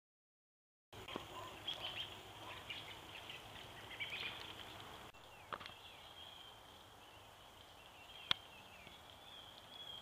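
Small birds chirping and twittering in the trees, many short high calls at first, then a thinner, steadier high call. A single sharp click about eight seconds in. The sound only begins about a second in.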